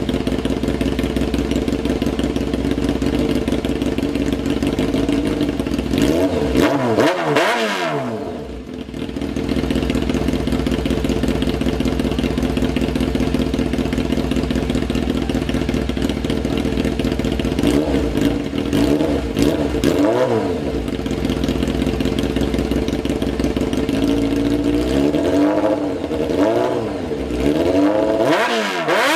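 A 600cc superbike engine breathing through a replica aftermarket slip-on exhaust, idling steadily and blipped up and back down three times: once about six seconds in, again around eighteen seconds, and a longer run of several revs in the last few seconds.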